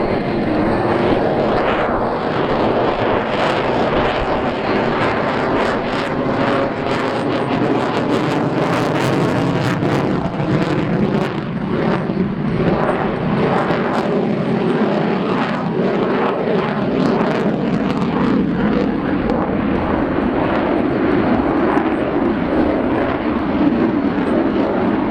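F-22 Raptor's twin F119 turbofan engines running at high power as the jet flies its display, a loud, steady jet noise with sharp crackling through the middle stretch.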